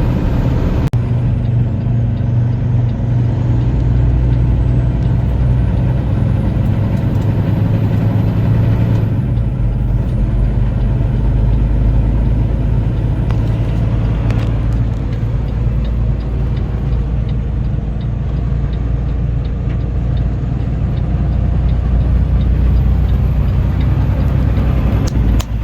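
Semi truck on the road, heard from the cab: a steady diesel engine drone with road noise.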